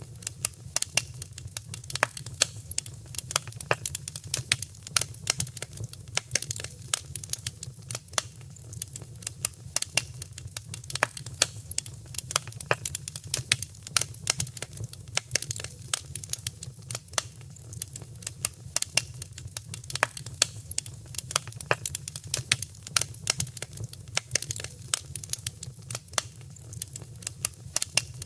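Wood fire crackling in a fireplace: a dense, irregular stream of sharp snaps and pops over a steady low rumble of the flames.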